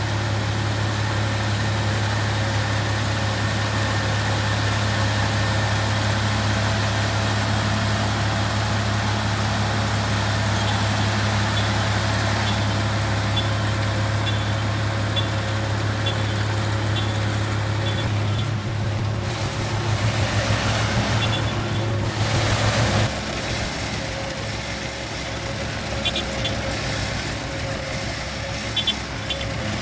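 A vehicle engine running steadily with a deep hum; about 18 to 23 seconds in the sound wavers and shifts, then carries on at a lower level.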